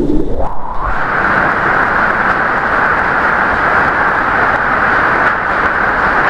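Storm rain and wind making a loud, steady rushing noise. In the first second the sound sweeps up from a low rumble into a higher, even hiss.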